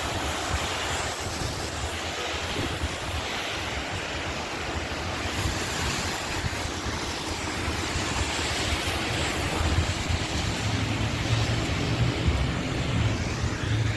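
Heavy rain pouring, with wind buffeting the phone's microphone; the low rumble of the wind grows stronger in the last few seconds.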